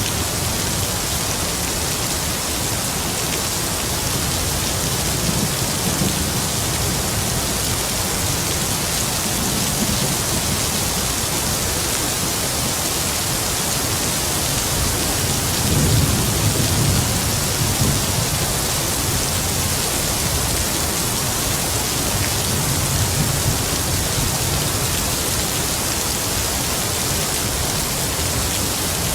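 Heavy rain falling steadily, with distant thunder rumbling low several times; the strongest roll comes about halfway through.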